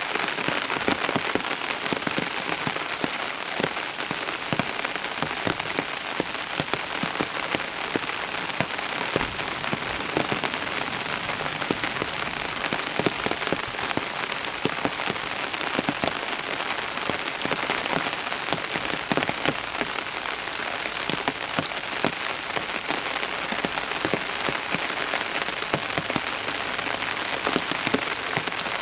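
Steady rain falling on a surface, a continuous patter of many individual drops.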